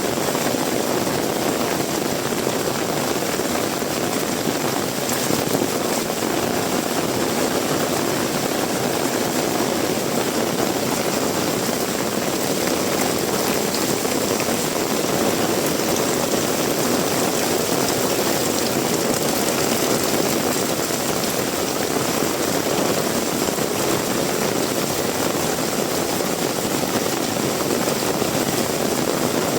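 Heavy rain falling steadily, a dense even hiss with no breaks or single drops standing out.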